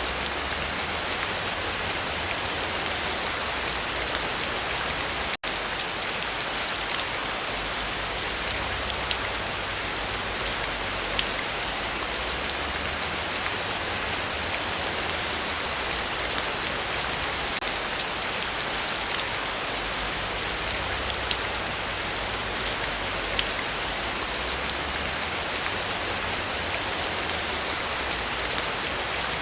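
Heavy rain falling steadily, a dense even wash with many small drop ticks. The sound cuts out for an instant about five seconds in.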